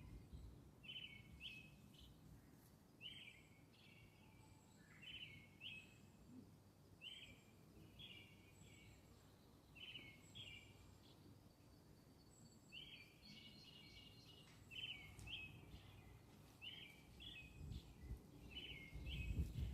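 Faint bird song: a short chirping phrase repeated every second or two, with thin high peeps behind it.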